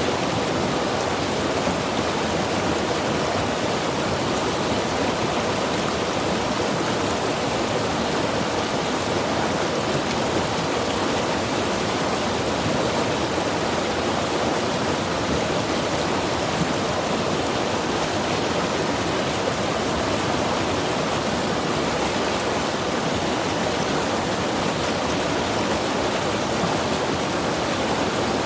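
Mountain river rushing steadily over rocks, a dense, even rush of water.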